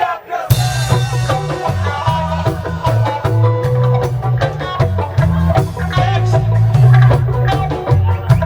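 Lovers rock reggae band playing, with a heavy bass line under guitar and drums. The band drops out briefly at the start and comes back in about half a second in.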